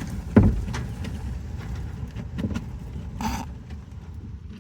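Strong windstorm gusts rumbling and buffeting against the house, with a heavy thump about half a second in, a few light knocks, and a short rattle a little after three seconds.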